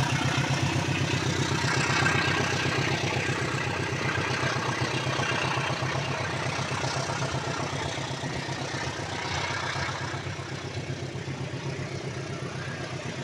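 An engine idling with a steady, rapid low throb that slowly fades.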